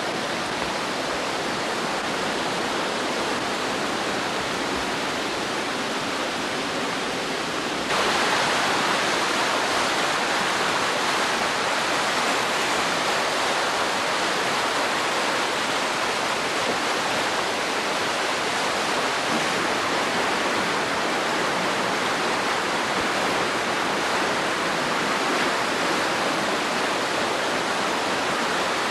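Steady rush of flooding water, a continuous hiss with no pauses. It gets louder suddenly about eight seconds in.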